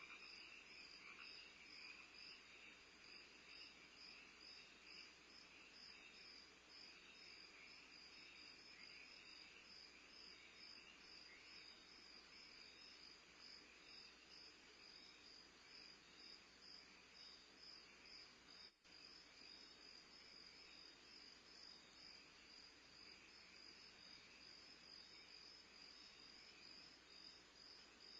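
Faint, steady chorus of crickets, a fast even pulsing, cutting out for an instant about two-thirds of the way through.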